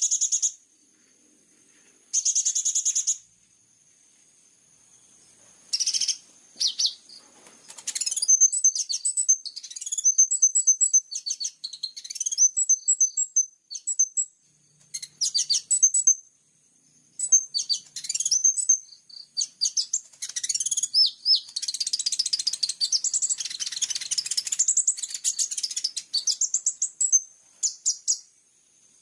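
Small songbird's bird-song training recording: very high-pitched chirps, twitters and quick trills in separate bursts, sparse at first and running almost continuously through the second half, over a faint steady high insect-like hum.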